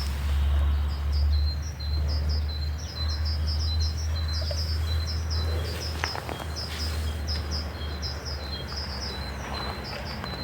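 Small birds chirping: a quick run of short, high, repeated notes, several a second, over a steady low rumble.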